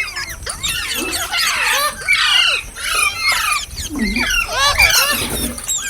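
Green parrots chirping and squawking: a dense, unbroken run of short, overlapping calls that sweep quickly up and down in pitch.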